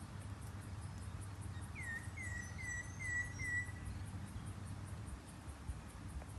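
A bird calling: a run of five short, downward-sliding chirps, about two seconds in, over a steady low background rumble.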